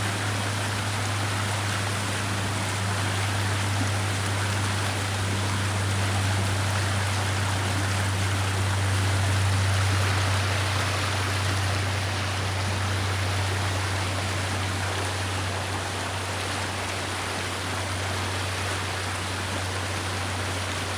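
Brook water running steadily, with a steady low hum underneath.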